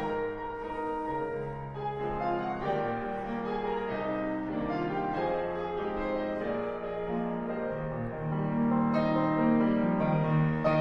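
Background music: piano playing slow sustained chords.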